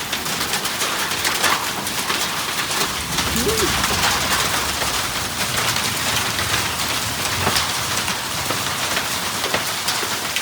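Heavy rain and large hailstones hammering down on a thin roof: a dense, steady hiss filled with many sharp cracks of individual hailstones striking.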